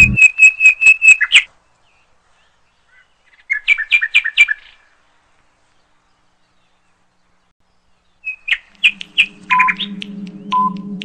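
Bird chirping in quick runs of short high notes: one run right at the start, another a few seconds later, then more after a silence. Near the end a steady background music bed comes in, with a quiz countdown timer beeping about once a second.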